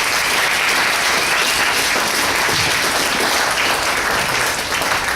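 Congregation applauding at the close of a sermon: steady, dense clapping that begins just before and breaks up into scattered claps right after.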